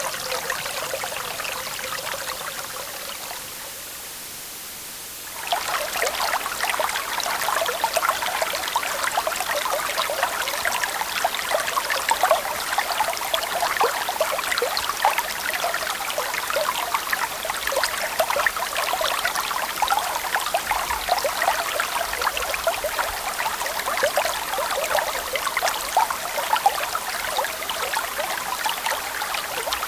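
Running river water. One recording fades down over the first few seconds, then about five seconds in a second starts abruptly: a steady, dense flow full of small splashes.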